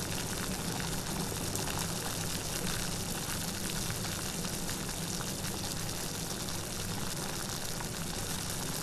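Steady rain falling, a dense even hiss scattered with fine drop ticks.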